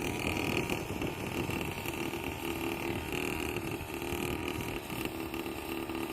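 A 49cc mini quad bike's small engine running steadily, with a faint engine tone that comes and goes.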